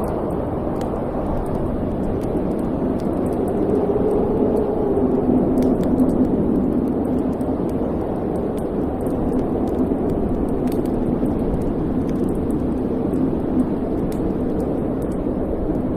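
Fireplace fire ambience: a steady low rushing roar that swells slightly around the middle, with light, scattered crackles over it.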